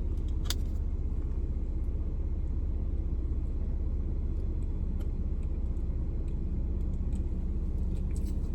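Steady low rumble of a car idling, heard inside the cabin, with one sharp click about half a second in and a few faint ticks later.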